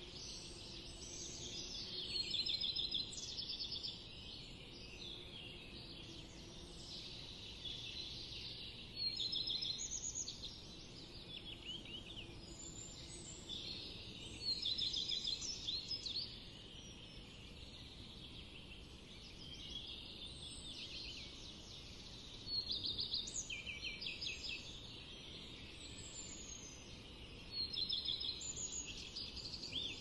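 Birds calling in the surrounding woods: a quick chattering phrase of rapid repeated notes comes about five times, roughly every five or six seconds, with scattered softer chirps between, over a faint steady background.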